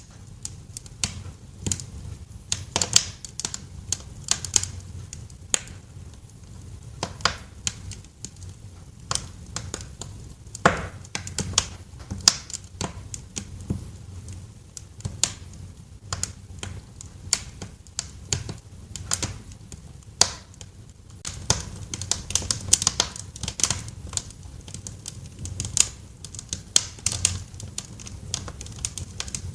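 Wood fire crackling in a fireplace: irregular sharp snaps and pops over a low, steady rumble, with a denser run of crackles about three quarters of the way through.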